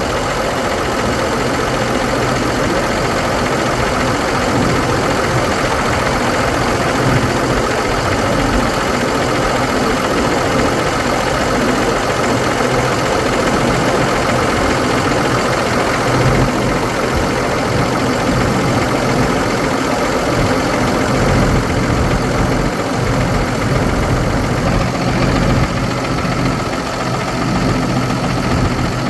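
2009 Ford F650 truck's engine idling steadily.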